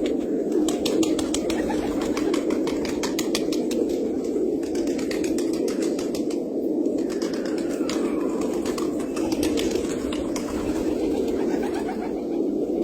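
Many pigeons cooing together in a continuous chorus, with rapid clicking during the first few seconds.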